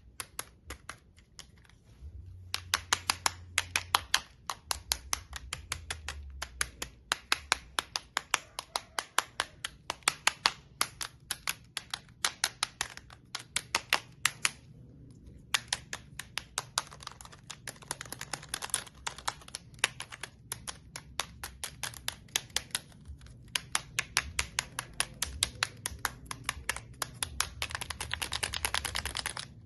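A sensory toy clicking rapidly in runs of several seconds, with brief pauses between the runs.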